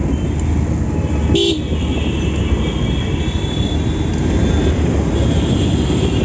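Steady rumble of wind and road noise while riding through traffic, with a short vehicle horn honk about a second and a half in.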